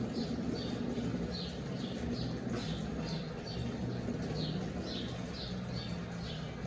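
Brastemp Eggo mini washing machine filling with water, a steady low hum under running water, with short high chirps repeating about two to three times a second.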